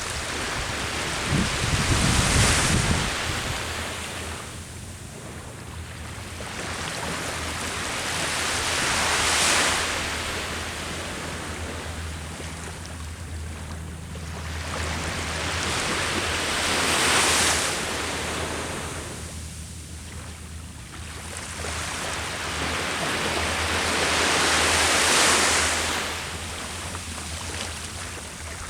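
Sea waves breaking on the shore, four surges about eight seconds apart, each building to a loud crash and then washing back.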